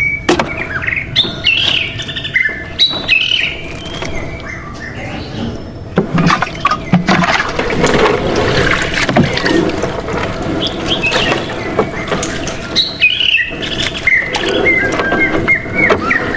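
Small birds chirping in quick short calls, busiest at the start and again near the end, over a steady faint tone. Irregular knocks and noise fill the middle stretch.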